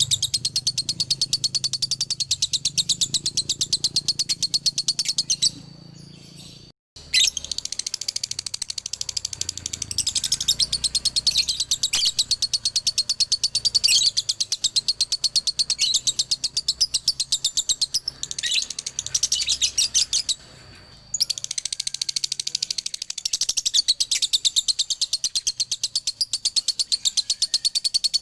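Male lovebird singing a long, rapid run of high chirps, the fast chattering call (ngekek/dobelan) that keepers prize, with two short breaks, about six seconds in and about twenty-one seconds in.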